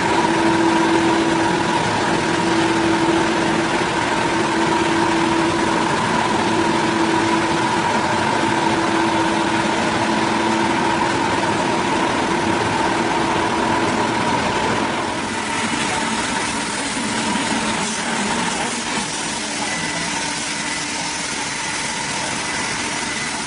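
An engine running steadily with a high whine over it. About fifteen seconds in the tone changes: the lower hum drops away and the sound settles slightly quieter.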